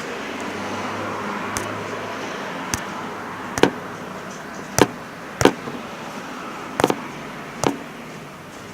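Sharp clicks and knocks, about seven of them at uneven intervals, over a steady background hiss: handling of the opened TV's parts as its ribbon cables are plugged back into their connectors.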